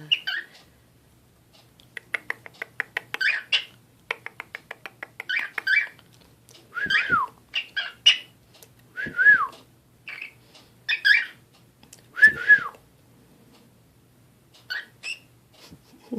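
Pet cockatiel chattering and whistling: runs of rapid clicky chatter, then chirps and three loud whistles that arch up and slide down in pitch.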